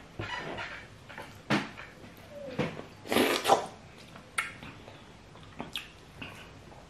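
Open-mouthed chewing and lip smacking while eating fufu with peanut soup by hand: irregular wet smacks and squelches, the loudest burst about three seconds in.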